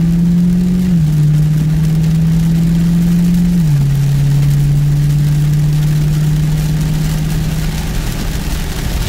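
The 6.4-litre 392 Hemi V8 of a 2020 Dodge Challenger Scat Pack 1320, heard from inside the cabin while driving. Its note drops in pitch twice, about a second in and again partway through, as the automatic gearbox shifts up, then climbs slowly. A steady hiss of rain and wet tyres runs underneath.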